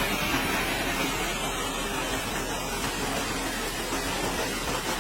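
Steady noise of heavy machinery running, an even hiss-like rumble with no distinct beat.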